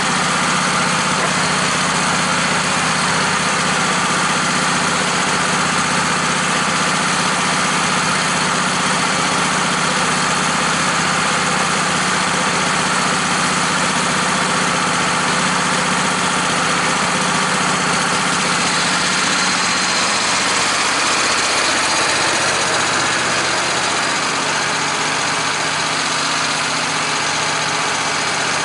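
An engine running steadily, its note shifting a little about twenty seconds in.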